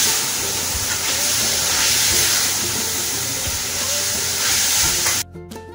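Meat and spices frying in oil in a kadhai: a steady sizzle that cuts off suddenly about five seconds in, leaving soft plucked-string background music.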